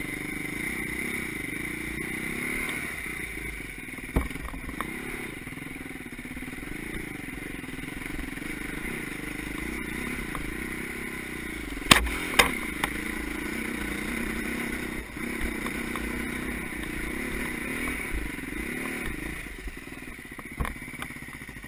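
Motocross motorcycle engines running, their pitch rising and falling as they rev, with a few sharp knocks about four seconds in and twice about twelve seconds in.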